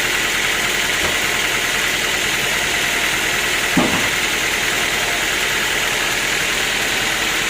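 Sawmill machinery running steadily with an engine-like drone, and a single short knock just before four seconds in.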